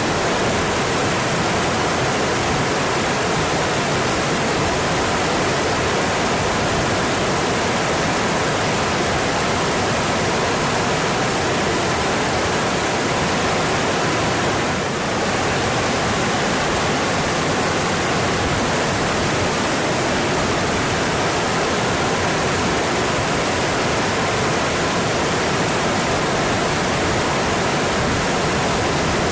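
Mountain stream flowing, a steady rush of water, with one slight brief dip in loudness about halfway through.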